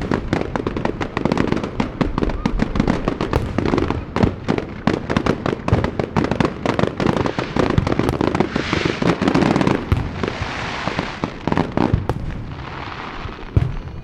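Aerial fireworks fired in a rapid barrage, many bangs a second overlapping one another. In the second half a steady hissing crackle swells over the bangs, then the barrage thins out near the end.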